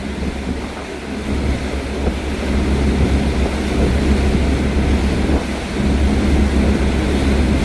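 Wind buffeting the microphone, a heavy, uneven low rumble that builds about two seconds in, over a steady low hum and a faint hiss.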